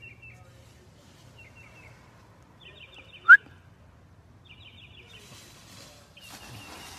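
Small birds chirping in short, repeated chattering trills. One loud, very short rising squeak comes about a third of the way in, and a rustling noise starts near the end.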